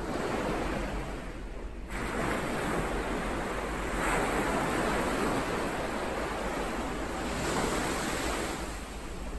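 Ocean waves washing onto the shore, the surf swelling in about two seconds in and again around four seconds, then easing near the end.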